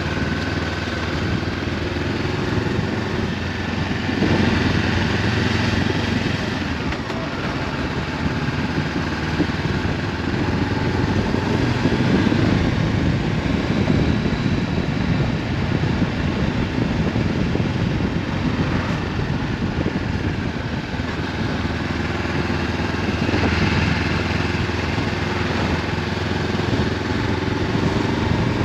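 Honda CB500F's parallel-twin engine through an Akrapovic exhaust, running under way, heard from a helmet-mounted camera with wind noise. The engine note rises about four seconds in and again near the end as the bike picks up speed.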